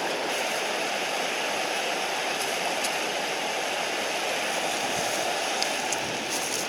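Mountain stream running steadily, a constant even rush of water, with a few faint ticks near the end.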